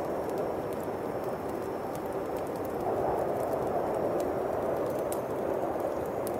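Howling winter wind as a steady rushing noise that swells a little about halfway through, with scattered small pops and crackles from a bonfire.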